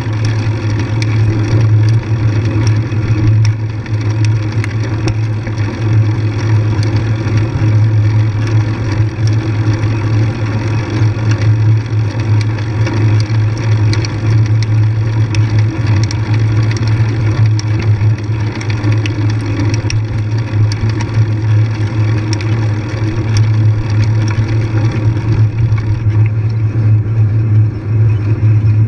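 Motorcycle engine running at a steady, constant pitch throughout, with faint clicks and rattles over it.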